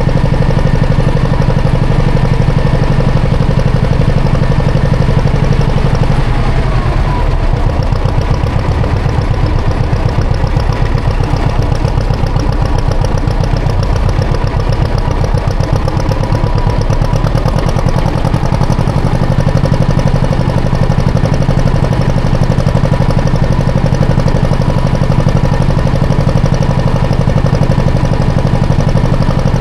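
Classic John Deere tractor engine running steadily while plowing snow. Its low note eases off about seven seconds in and picks back up after about eighteen seconds.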